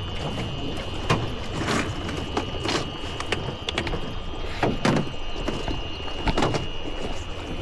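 Fishing gear being stowed in a small boat: a series of sharp knocks and clunks against the hull, several of them in pairs, over a steady high whine and low rumble.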